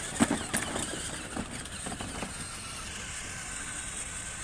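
Car engine running steadily, with a few sharp clicks and knocks in the first two seconds or so.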